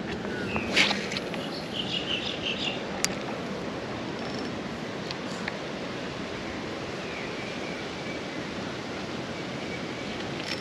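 Steady outdoor river ambience: an even hiss of wind and water around a small boat. A few faint high chirps and light clicks come in the first few seconds.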